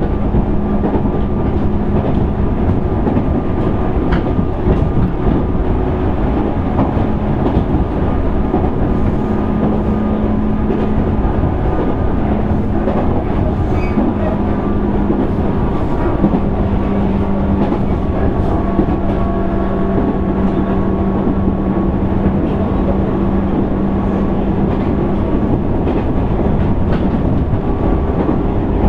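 JR East 205 series 600 subseries electric train running at speed, heard from its motor car: a steady rumble of wheels on rail with a motor hum that drops out and comes back several times, and light clicks of rail joints.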